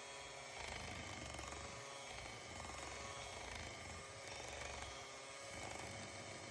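Quiet room tone: a faint steady hum over a low rumble that rises and falls.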